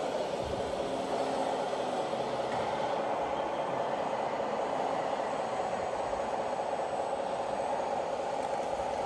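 Scale RC truck or tractor running with a steady mechanical drone.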